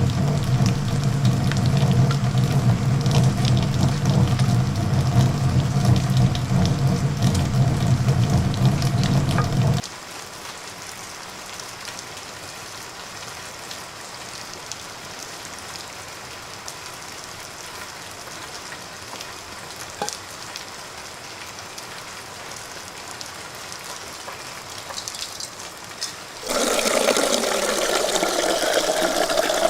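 A steady mechanical hum with a fixed low pitch runs for about ten seconds and cuts off suddenly, leaving a quieter even hiss of rain or falling water. About three seconds before the end, a loud rush of water starts abruptly.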